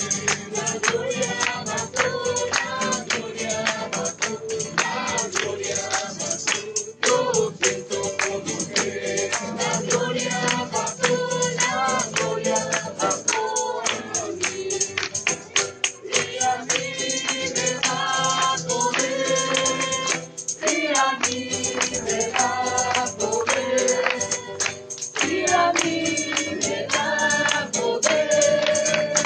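A group of voices singing a worship chorus together, with a tambourine keeping a steady rhythmic beat.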